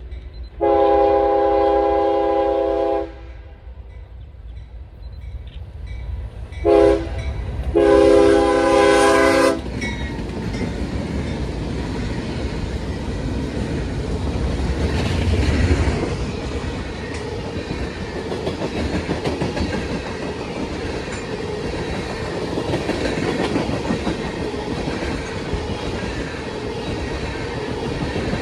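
Locomotive air horn sounding a long blast, a short one and another long one, its several tones held together as a chord, then a train rolling past with a steady rumble and rapid clickety-clack of wheels over rail joints.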